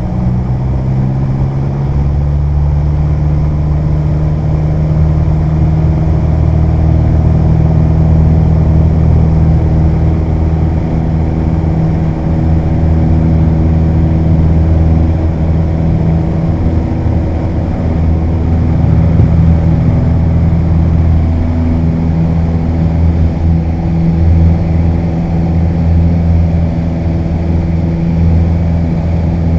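Piper Warrior's four-cylinder Lycoming O-320 engine and propeller running at high power for the takeoff, a loud steady drone that steps up about two seconds in and then holds.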